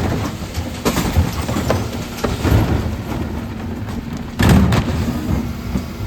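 Dennis Elite refuse lorry running on a recycling collection, its engine humming under a series of knocks and thuds from the bin lift, with the loudest bang about four and a half seconds in.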